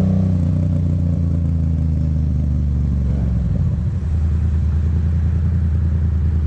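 Motorcycle engine running steadily, with a brief dip in loudness about four seconds in.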